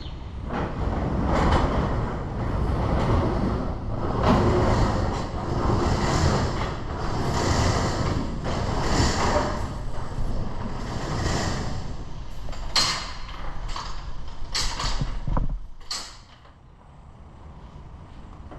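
1939 Dodge Brothers TE-32 truck engine starting up and running unevenly, swelling and easing about every one and a half seconds. Several sharp clunks come near the end, and the low rumble then stops abruptly.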